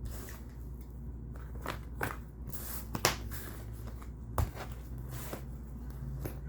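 Tarot cards being handled and shuffled: a string of sharp snaps and taps at irregular intervals over a low steady hum.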